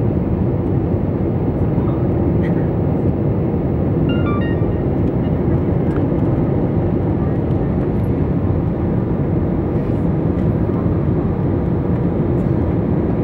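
Steady, loud noise of a jet airliner's engines and airflow heard inside the passenger cabin during the approach to landing. A few brief high tones sound about four seconds in.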